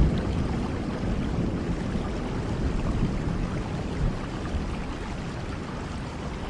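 Steady rain with a low rumble underneath, its level sinking slightly over the few seconds.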